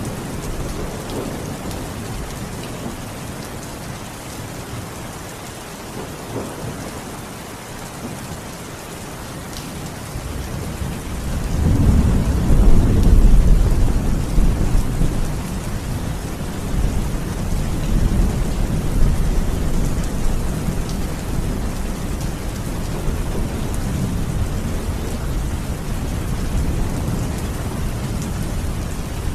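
Steady rain falling, with a low rolling rumble of thunder that builds about eleven seconds in, peaks a few seconds later, and dies away slowly in further waves.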